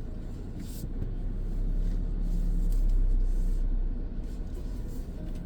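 Wind buffeting the microphone: a low rumble that swells and then eases off.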